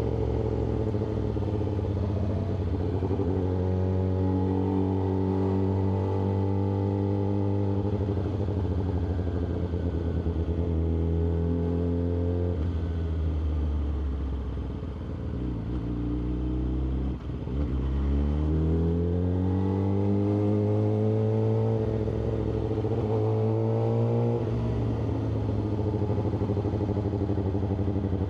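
Yamaha R6 inline-four engine running under way. The note rises as the bike pulls, holds steady, then drops away to a low point around the middle. It climbs again and, after a step like a gear change near the end, settles into a steady cruise.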